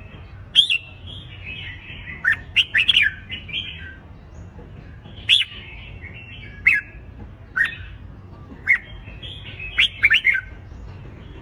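Red-whiskered bulbuls giving their competitive fighting song: loud, sharp, steeply sweeping whistled notes about once a second, bunched in quick runs a few seconds in and near the end, with softer chattering between.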